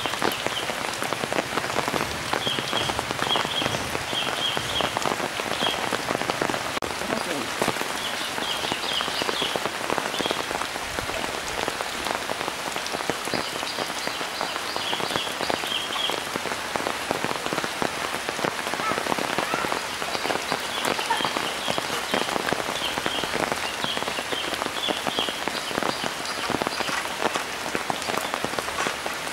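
Heavy rain falling steadily on open floodwater and leaves, a dense, even patter. Short runs of high chirping come and go in the background every few seconds.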